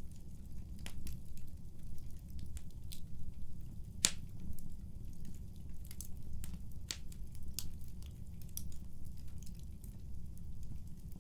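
Wood fire in a fireplace crackling: irregular sharp pops and snaps over a steady low rumble of burning, with one louder snap about four seconds in.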